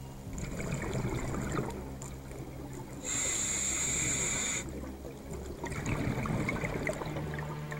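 Scuba diver breathing through a regulator underwater: a gurgling rush of exhaled bubbles, a loud hiss of inhalation about three seconds in that lasts about a second and a half, then bubbles again.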